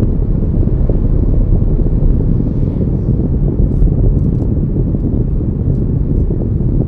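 Steady low rumble of a car on the move, road and wind noise, with a few faint ticks.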